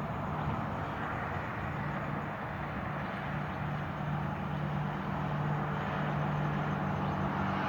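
Distant highway traffic: a steady wash of tyre and engine noise with a low drone that slowly grows louder.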